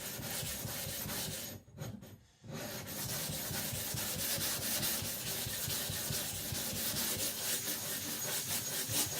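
Naniwa Professional 400 whetstone being lapped flat, rubbed back and forth in quick strokes: a steady scraping rub with a brief pause about two seconds in.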